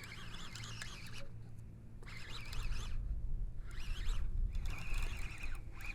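Baitcasting fishing reel working against a hooked fish, giving short zipper-like bursts about four times, under a low rumble.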